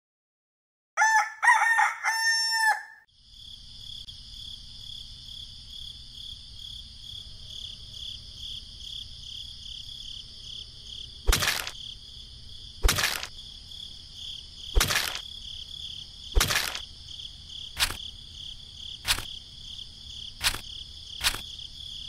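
A rooster crows once, about a second in, in a loud drawn-out call that rises and falls. A steady high-pitched buzzing follows, with eight sharp clicks spaced a second or two apart in the second half.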